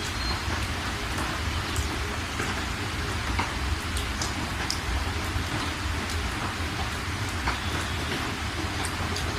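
Steady rain, with scattered individual drops ticking and a continuous low rumble underneath.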